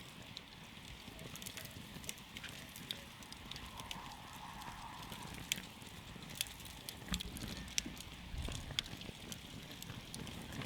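Campfire burning, with scattered sharp crackles and pops over a low steady rumble.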